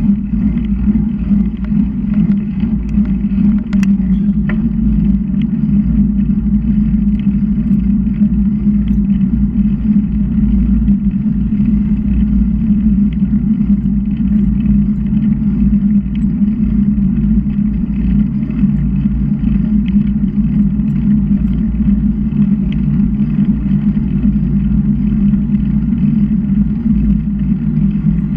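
Steady low rumbling wind noise on a camera microphone riding along on a moving bicycle, unbroken throughout.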